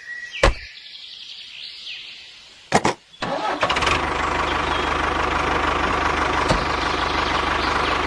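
Mini tractor's motor starting up about three seconds in, after a couple of sharp clicks, then running steadily.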